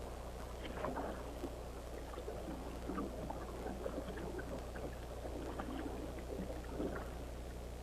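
Irregular wet sloshing and squelching of water and mud, as small splashy bursts over a steady low hum.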